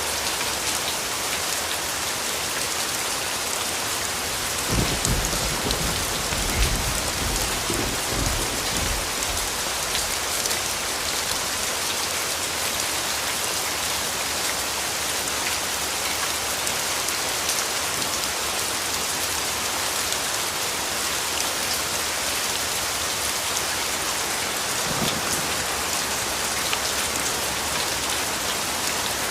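Steady rain falling, an even hiss of drops. About five seconds in, a low rumble of thunder rolls for around four seconds, and a shorter, fainter rumble comes near the end.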